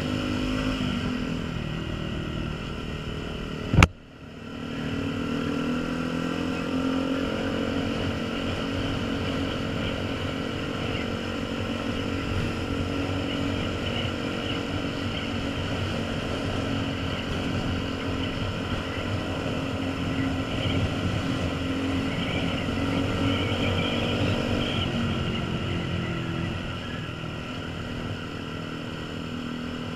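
Honda CBF125 single-cylinder motorcycle engine running steadily under way, with wind noise over it. About four seconds in there is one sharp knock, then the sound dips for a moment before the engine note returns and climbs slightly.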